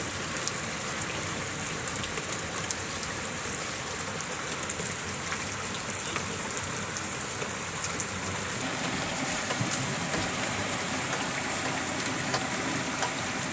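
Steady rain falling, with many small drop taps pattering through it, growing a little heavier about two-thirds of the way in.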